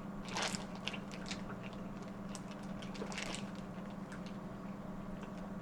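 Close-up eating sounds from a seafood boil: wet chewing and squishing with small clicks, and two louder crackly bursts about half a second and three seconds in, over a steady low hum.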